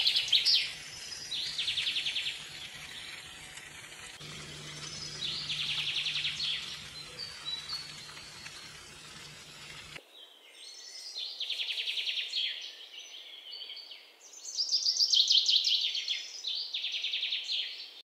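A songbird singing a string of short, high-pitched trilled phrases, some falling in pitch, over a faint background hiss.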